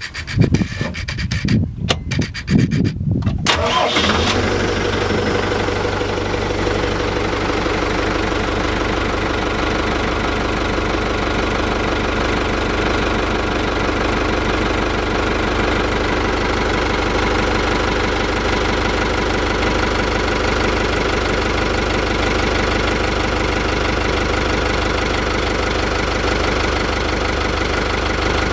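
Yamaha 72X (MD38K-CH) marine inboard engine being started: it cranks unevenly for about four seconds, catches, and then settles into a steady idle.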